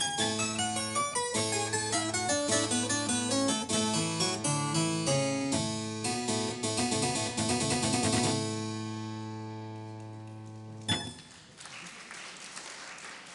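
Harpsichord playing a fast run of notes that ends on a chord about eight seconds in, which rings on and fades. A sharp click comes about eleven seconds in, then soft applause.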